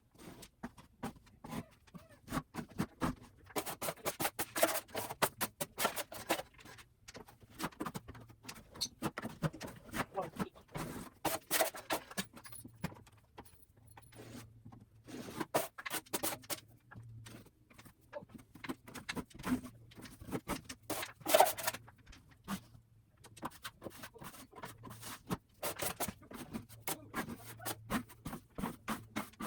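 Irregular scraping and tapping of a hand tool working a textured drywall ceiling, in quick uneven strokes with quieter pauses, over a faint steady low hum.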